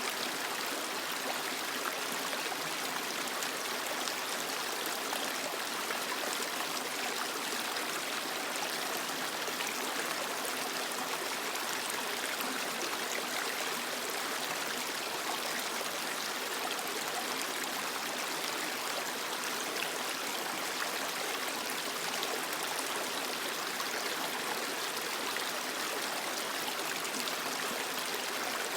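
Creek water flowing steadily over rocks, a continuous rushing with small trickles and gurgles.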